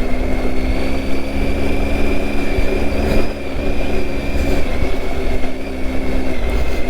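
Triumph Tiger 800's three-cylinder engine running at a steady, even pitch, with a low rumble of wind and riding noise.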